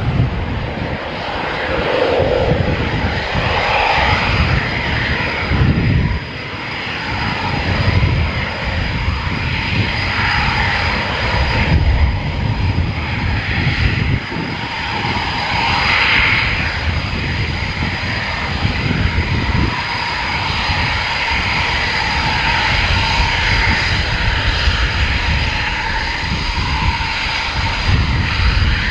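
Military fighter jet engines running loud and steady: a continuous rushing roar over a low, uneven rumble, with a faint whine riding on top. The sound dips briefly about six seconds in and then holds.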